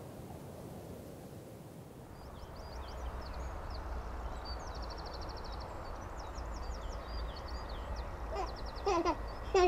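Small birds chirping and singing rapid high trills in the trees, starting about two seconds in, over a low steady outdoor rumble. A young child's voice breaks in briefly near the end.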